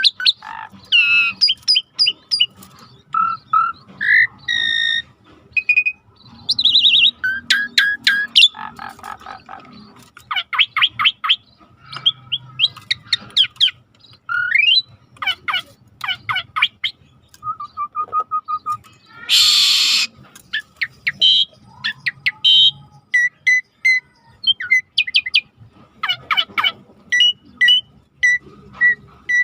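Songbirds singing a fast, varied medley of whistles, trills, sweeping notes and chirps, with one harsh rasping burst in the middle and a run of evenly repeated sharp notes near the end.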